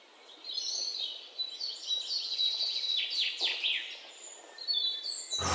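Birdsong: a string of high chirps and whistles, with a few quick downward-sweeping calls around the middle, over a faint hiss.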